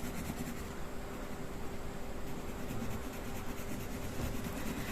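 Steady background hiss with a constant low hum.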